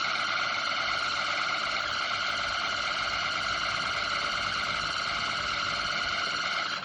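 Table fan running with a steady, high-pitched squealing whine from its dry shaft bearing, the noise that calls for oiling the bearing. It cuts off abruptly at the end.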